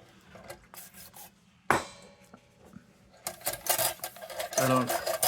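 A sharp knock with a brief metallic ring about two seconds in, then a rag rubbing and wiping over the metal of an old kerosene lantern, a scratchy, uneven noise.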